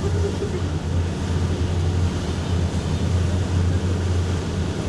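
Whale-watching boat's engine running with a steady low drone.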